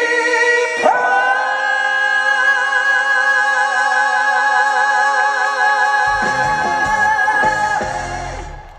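Live trot song: a male singer holds one long note with vibrato over the backing music, low drum and bass hits come in about six seconds in, and the music dies away near the end.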